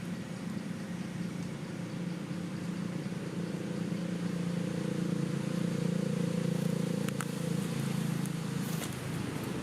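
A motor vehicle's engine running steadily, swelling a little in the middle and fading near the end, with a couple of faint clicks late on.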